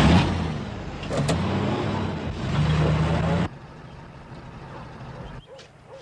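Car engine revving as a vehicle pulls away and accelerates, its pitch stepping up. It cuts off abruptly about three and a half seconds in, leaving quieter background.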